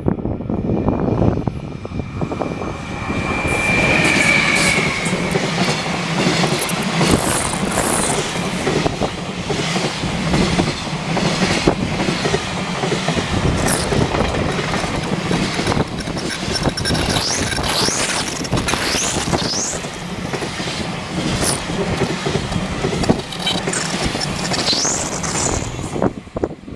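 A train passing over a level crossing at speed: a steady rumble of wheels on rail, with high wheel squeals sliding up and down through the second half.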